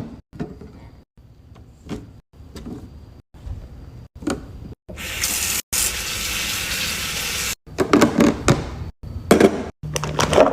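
Fridge cleaning and restocking sounds cut together in short pieces: light knocks and clicks of containers and shelves, then a steady hiss of water about five seconds in lasting some two and a half seconds, followed by louder clattering.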